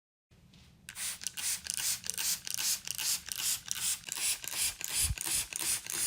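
Rhythmic scraping strokes of a hand tool working a part, about three to four strokes a second, starting about a second in.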